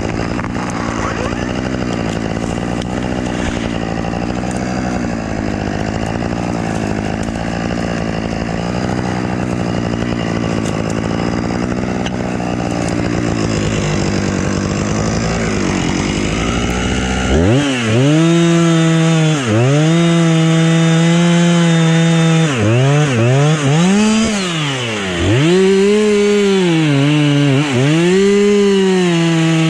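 Husqvarna two-stroke chainsaw running at a lower, steady speed, then revved hard a little past halfway. At full throttle its pitch dips briefly several times and climbs back.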